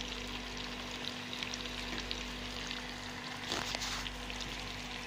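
Potato fries and a sausage shallow-frying in oil over low heat: a steady, gentle sizzle with scattered small crackles.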